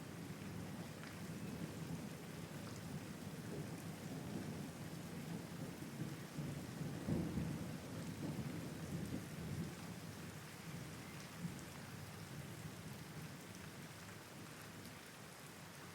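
Steady rain hissing, under a long low rumble of thunder that swells about seven seconds in and dies away toward the end.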